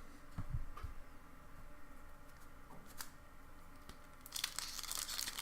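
Foil booster-pack wrapper being torn open and crinkled, starting about four seconds in, after a few soft handling taps.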